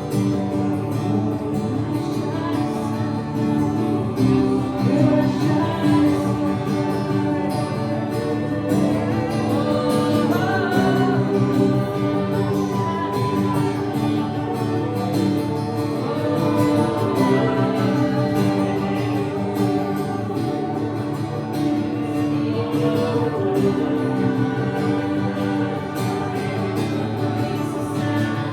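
Live worship music: acoustic guitar and sustained instruments with wordless or unintelligible singing over them.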